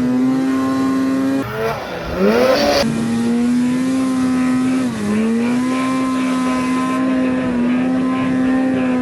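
Snowmobile engine running steadily at high revs, its pitch climbing briefly about two seconds in, then dipping and recovering about five seconds in.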